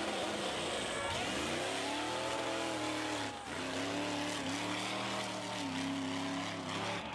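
Mud truck engine revving hard, its pitch climbing and falling. About three and a half seconds in, the sound cuts to an engine held at a high, fairly steady rev.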